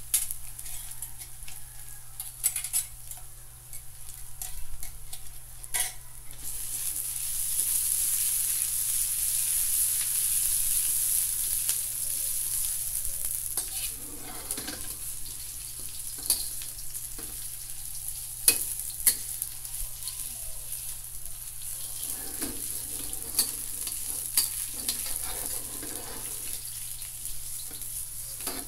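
Chopped ginger sizzling in oil in a newly seasoned carbon steel wok, fried to take out the wok's metallic taste. It is stirred and pushed around the pan, with scattered scrapes and taps against the steel. The sizzle is loudest from about seven to twelve seconds in.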